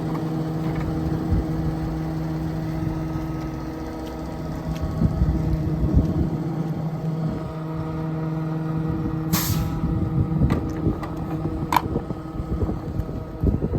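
Volvo truck's diesel engine running with a steady hum, with knocks and rattles about four to seven seconds in and a short hiss of air about nine seconds in.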